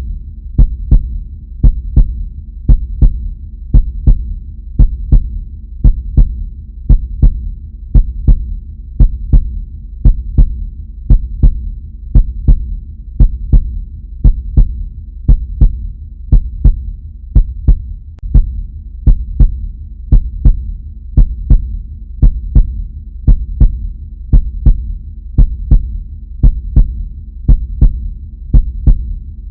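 Heartbeat sound effect: a steady lub-dub, each beat a double thump, about one beat a second, over a low continuous hum.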